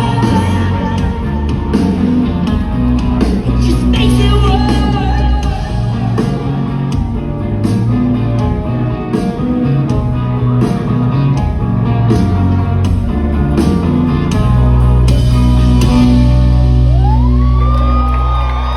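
Live rock band playing loud, with drums, distorted guitars, heavy bass and shouted singing, heard in a large hall. Near the end the band holds a sustained chord with a sliding note over it.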